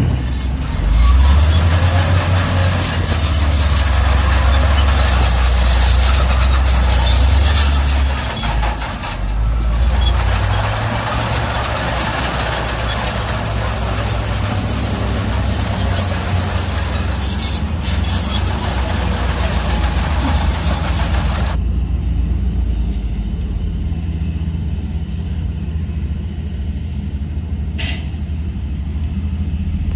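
Heavy diesel earth-moving machinery working: a deep engine drone rises about a second in and stays steady under load. A dense hiss and rattle rides on top and cuts off suddenly about two-thirds of the way through, leaving the engine rumble alone.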